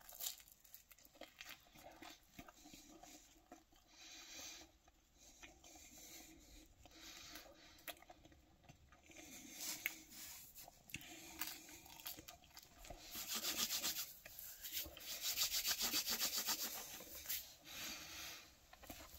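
Quiet chewing of a mouthful of pizza crust, with rubbing and rustling noises that grow louder a little past the middle.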